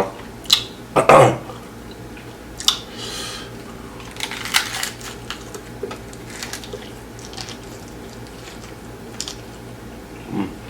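Close-up mouth and eating sounds: scattered wet clicks and smacks of the tongue and lips, with a short voiced sound about a second in.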